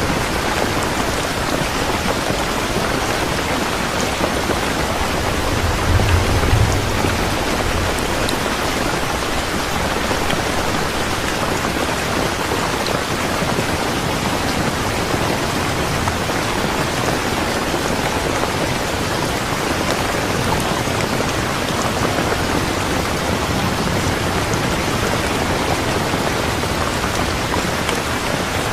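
Steady rain, an even hiss of falling drops, with a brief low rumble about six seconds in.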